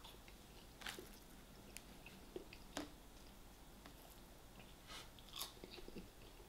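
Faint close-up chewing and biting of fried food by a person, with scattered small wet mouth smacks and clicks, a few slightly louder about a second in, just before three seconds and around five seconds.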